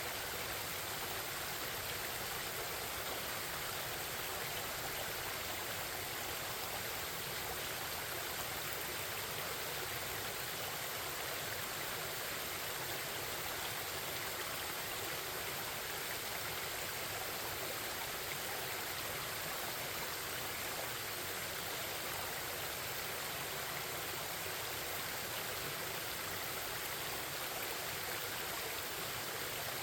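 A forest stream babbling: a steady, unbroken rush of flowing water.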